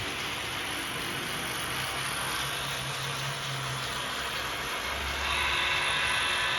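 HO-scale model train running on the layout: a steady motor and wheel noise with a low hum, growing louder about five seconds in.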